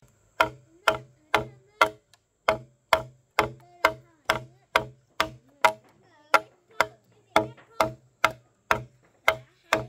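Steady, evenly spaced blows of a hand tool striking wood, about two a second, starting about half a second in.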